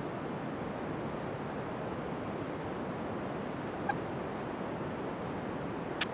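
Steady, even rush of wind and water noise out on the sea, with one faint click about four seconds in.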